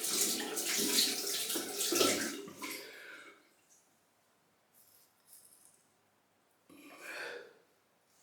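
Water from a tap running and splashing into a sink, with small knocks of rinsing, cutting off about three seconds in; a shorter second rush of water comes about seven seconds in.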